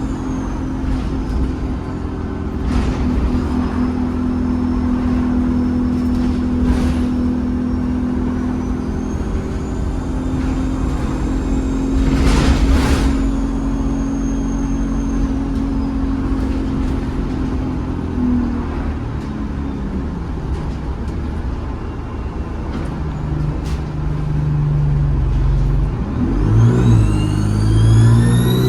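ADL Enviro 200 bus's diesel engine running under load with a high turbocharger whistle. The engine note is steady at first and falls away after the middle. Near the end it picks up again and the turbo whistle rises sharply in pitch as the bus accelerates.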